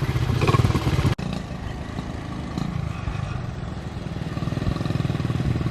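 Small Honda pit-bike engine running steadily, with a brief sharp dropout about a second in and a slight build toward the end.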